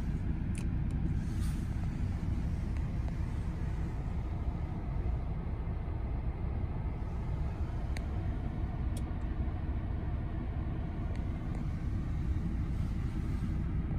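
Audi A6 2.0 TDI diesel engine idling steadily, heard from inside the cabin as an even low rumble. A couple of light clicks come about eight and nine seconds in.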